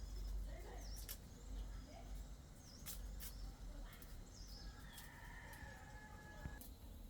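Faint farmyard ambience: small birds chirping and a few sharp clicks, with a rooster crowing in one held call about five seconds in, over a low rumble.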